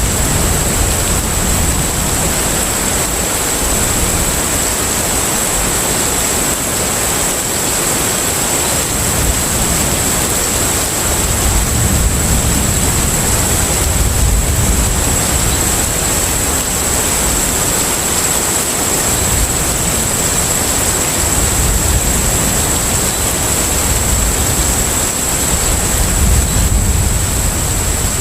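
Container ship at sea ambience: a steady rushing noise of wind and water with a deep rumble underneath that swells and fades every few seconds. A thin, steady high tone runs through it.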